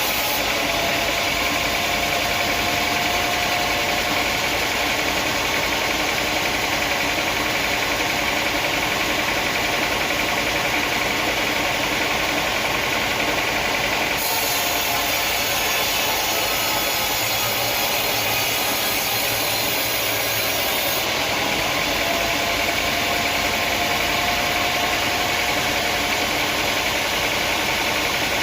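Sawmill machinery running steadily, an engine-driven drone with a low, even pulsing. The sound shifts slightly about halfway through and again about three quarters of the way.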